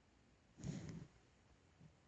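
A short burst of throat and breath noise from a person who has a cold, about half a second in, with a faint second breath near the end.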